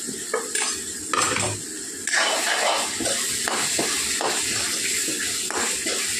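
Potatoes and masala frying in hot mustard oil in a wok, sizzling steadily, with a metal spatula scraping and clinking against the pan as it stirs. The sizzle gets louder about two seconds in.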